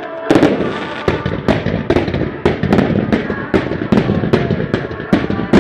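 Fireworks display firing a rapid barrage: sharp shell bursts and launches about three a second over constant crackling, with one of the loudest bangs near the end.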